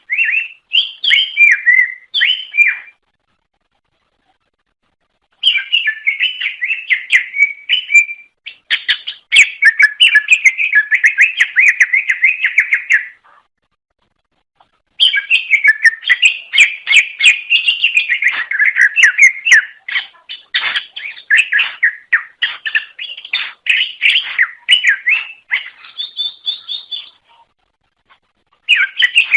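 Cucak ijo (greater green leafbird) singing in long, rapid runs of varied chattering and whistled notes, broken by a few pauses of about two seconds.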